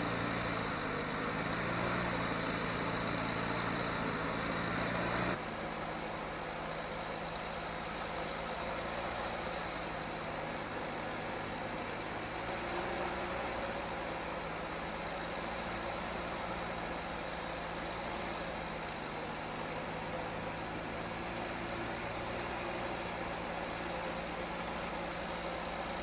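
A heavy vehicle's engine running steadily. About five seconds in the sound drops abruptly and goes on as a quieter, steady engine sound.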